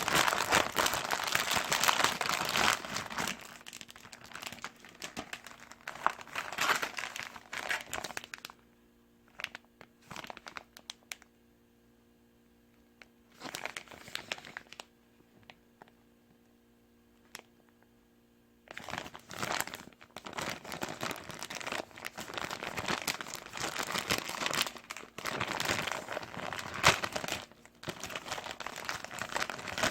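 Plastic packaging crinkling and rustling close to the microphone, in two long stretches with a quieter gap between them that holds only a few short rustles and a low steady hum.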